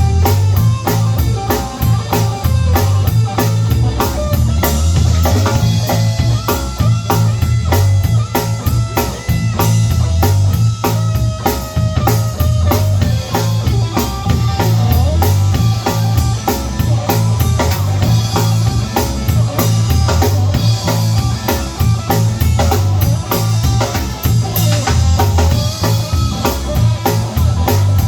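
Blues band playing live at a steady beat: drum kit to the fore over bass and electric guitar.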